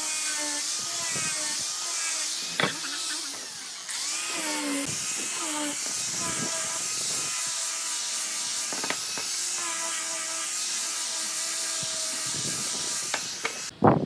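A handheld electric power tool working wood: its motor runs with a loud hiss, and its pitch dips and recovers as it bites under load, with a few sharp knocks. It cuts off suddenly near the end.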